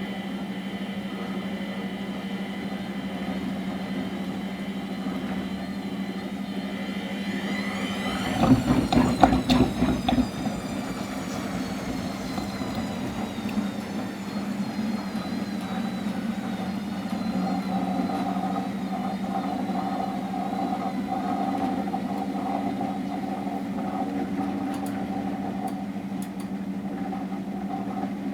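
Miele Professional WS 5426 washing machine running a 95 °C boil wash: a steady hum, then about eight seconds in a sudden loud stretch of clunking and sloshing lasting a couple of seconds, with a whine that slowly falls in pitch before the machine settles back into steady running.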